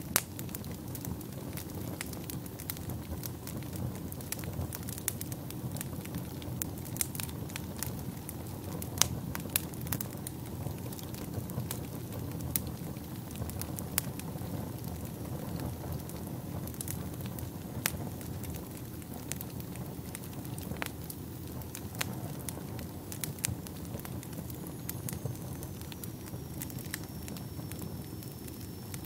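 Wood fire burning in a fireplace: a steady low rumble of flames under dense, irregular sharp crackles and pops.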